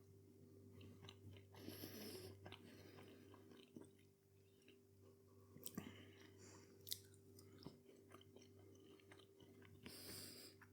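Faint chewing of a mouthful of meat-free burger, soft irregular clicks and squelches, over a low steady hum.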